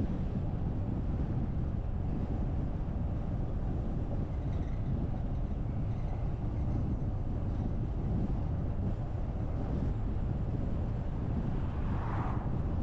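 Steady low rumble of a car driving: road and wind noise. A brief rushing swell comes near the end.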